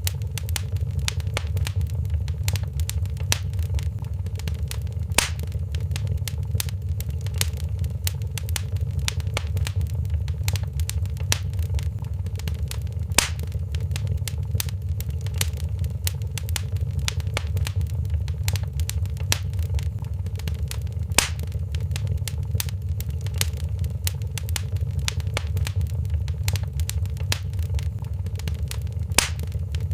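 Wood fire in a fireplace crackling: a steady low rumble of flames under a constant scatter of small snaps, with a louder pop about every eight seconds.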